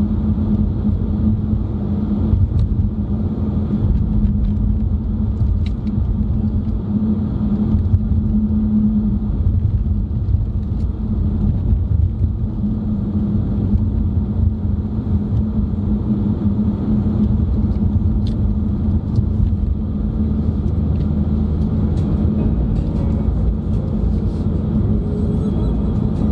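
Steady road and engine rumble heard inside a moving car's cabin, with a constant low drone and no change in speed.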